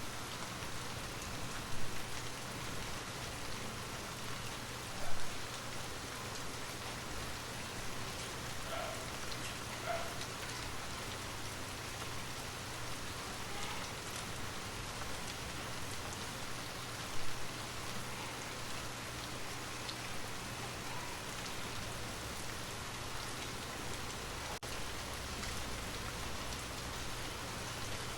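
Steady rain falling, an even patter, with three short louder taps about 2, 5 and 17 seconds in.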